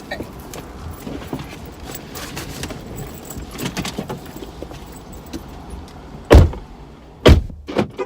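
Car doors being shut: two heavy thumps about a second apart near the end, after a stretch of light clicks and rustling over a steady low background.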